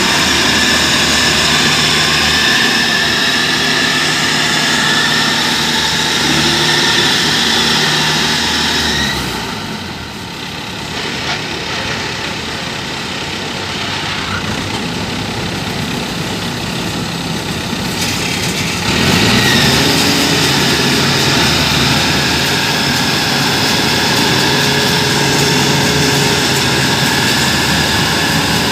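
A rice combine harvester's diesel engine running hard. The engine note drops off about a third of the way in, then revs back up with a rising whine about two-thirds through, as the machine is run to shed the mud clogging it.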